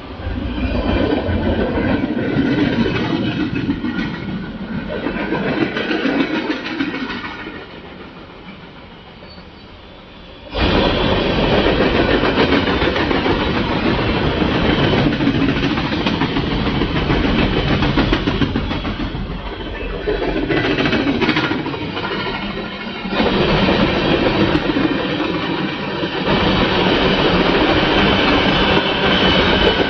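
Freight train cars rolling past close by on the main line, with a steady clatter of wheels over the rail joints. The sound drops away for a couple of seconds and then comes back at full level.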